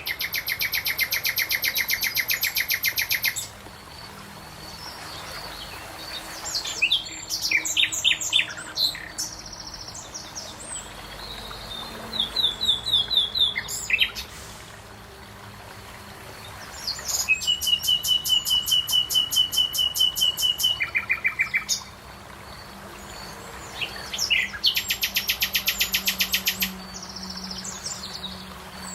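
Songbirds singing: three long trills of rapid repeated notes, each lasting a few seconds, with shorter chirping phrases between them.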